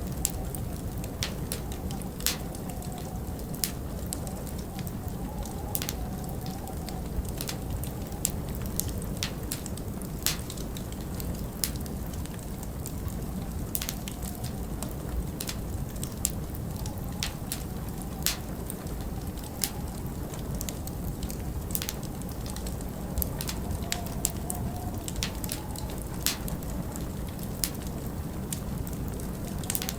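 Log fire crackling, with sharp irregular pops about once or twice a second, over a steady low rumble of winter wind.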